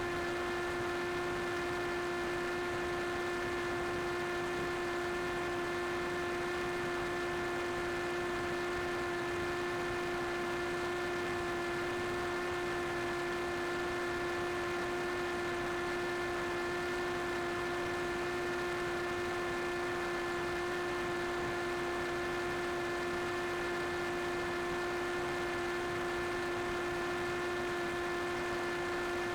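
Drone's propellers and motors running at a steady pitch: a constant hum of several held tones over a hiss, unchanging throughout.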